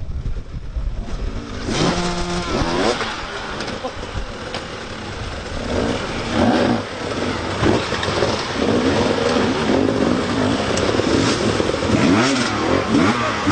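Motocross motorcycle engines revving, their pitch climbing and dropping as they accelerate and shift. From about two seconds in, several engines overlap.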